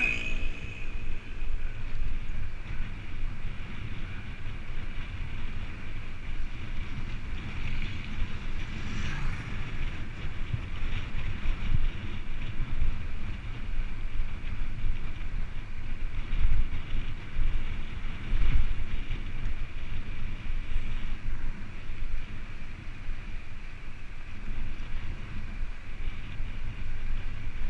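Wind buffeting the microphone of a camera on a moving bicycle: a continuous low rumble that gusts up and down, with a faint steady high hiss of rolling noise.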